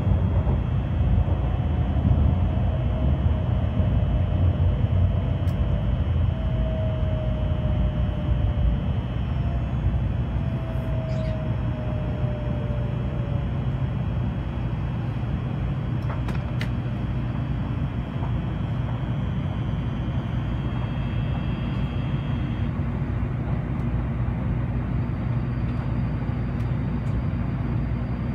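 Shinkansen bullet train running, heard from inside the passenger cabin: a steady low rumble with a faint whine that falls gently in pitch over the first half, the train slowing as it nears a station.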